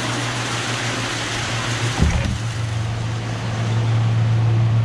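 Steady machine hum with a rushing, air-like hiss, typical of shop ventilation or other running equipment. There is a single knock about two seconds in.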